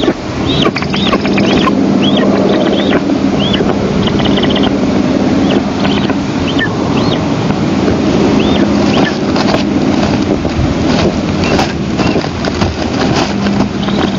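Steady wind rumbling on an outdoor nest camera's microphone, with a low steady hum under it. Over it, a series of short, high chirping bird calls, each rising and falling, repeated about every half second through the first half, then fewer.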